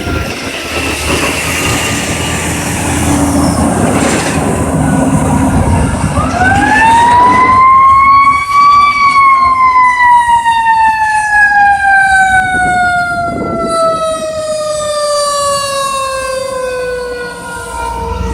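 Fire truck siren wailing: under vehicle rumble a falling tone fades in the first seconds, then the siren rises about six seconds in, peaks, and falls slowly for nearly ten seconds before starting to rise again at the very end.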